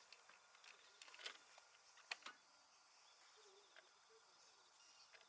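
Near silence: quiet outdoor ambience with a few faint clicks and taps, the clearest about a second and two seconds in, and a faint high steady tone later on.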